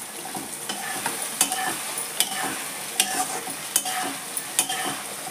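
Breaded poha cutlets sizzling as they deep-fry in hot oil in a pan, with sharp pops and clicks about once a second while a metal slotted spoon turns them.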